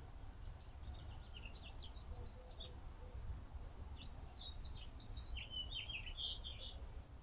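A small bird twittering in two quick runs of high chirps, the first starting about a second in and the second about four seconds in, over a faint low steady rumble.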